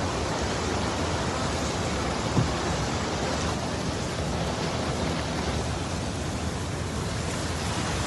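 Steady rushing noise of a heavy rainstorm, with one brief thump about two and a half seconds in.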